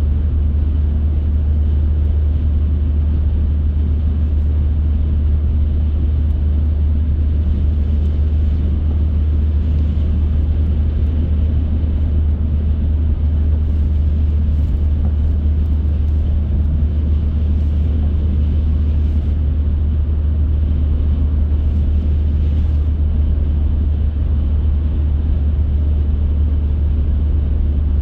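A car driving at a steady speed: a constant low rumble of engine and tyre road noise. A few faint, brief hisses come and go over the middle stretch.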